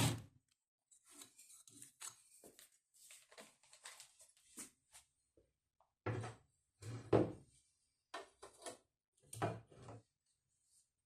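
Irregular light knocks and clatter of objects being handled, with a few louder knocks in the second half.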